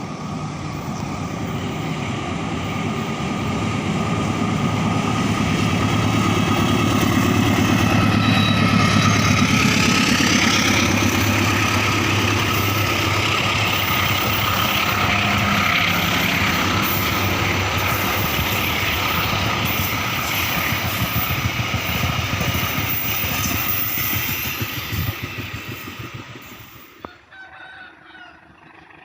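Indonesian diesel-hauled train passing: the locomotive engine and the wheels on the rails build up, run loud for a long stretch, then die away near the end.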